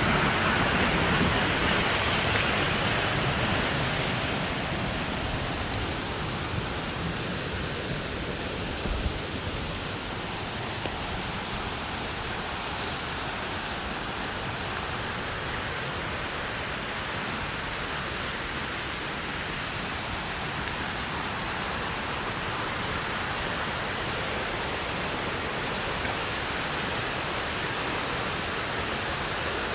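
Waterfall: the steady rush of falling water, a little louder in the first few seconds, then even.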